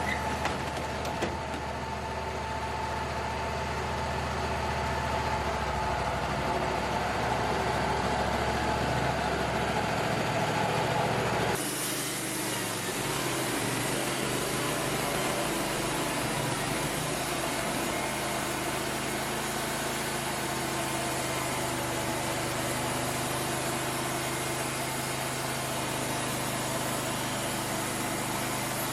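Wood-Mizer LT35 portable sawmill running steadily under its engine. About twelve seconds in the sound changes abruptly to a different steady running sound with more hiss.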